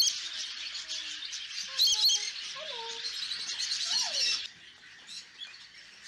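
Many small caged birds chirping and twittering together, dying down about four and a half seconds in.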